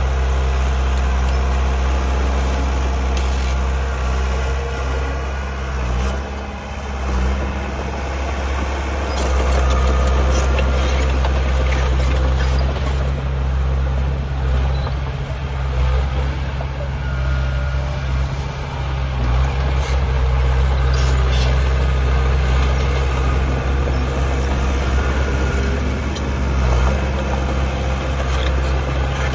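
Heavy diesel engine of earthmoving machinery running steadily at a low pitch, easing off briefly a few times, with occasional short clanks over it.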